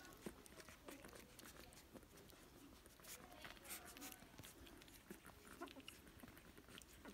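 Faint puppy sounds: a few soft, wavering squeaks about three to four seconds in, among scattered small clicks and rustles.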